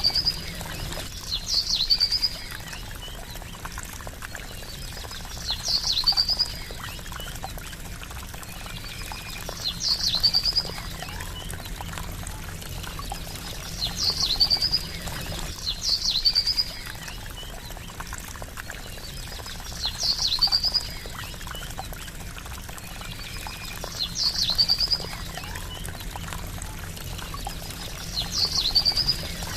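Steady trickling water under a short, high bird call with a trilling tail, which comes back roughly every four seconds, sometimes twice in quick succession.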